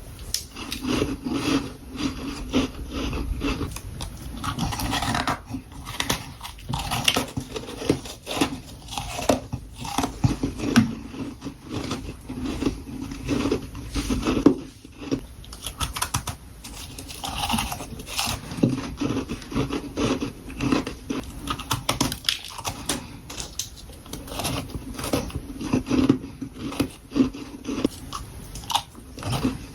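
Mouth biting into and chewing freezer frost: a close, irregular run of crisp crunches, many each second.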